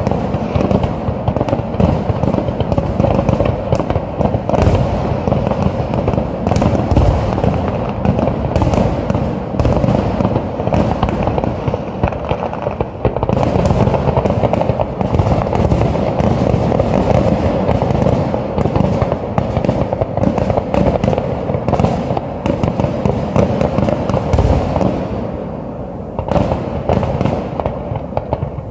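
Aerial fireworks shells launching and bursting in quick succession: a continuous barrage of booms and bangs, easing off briefly near the end.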